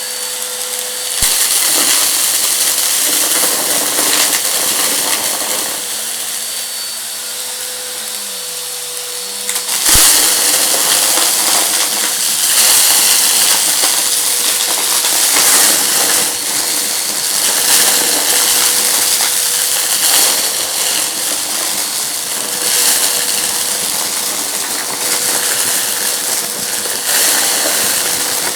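Vacuum cleaner running over a rug, sucking up crunchy debris that crackles and rattles through the machine over a steady motor hum. A sharp knock comes about ten seconds in, and the sound is louder after it.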